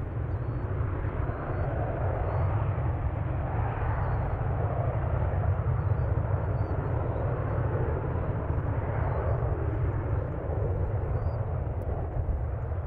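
Jet airliner passing, its engine noise a heavy low rumble with a broad rushing noise above it that swells and eases slowly.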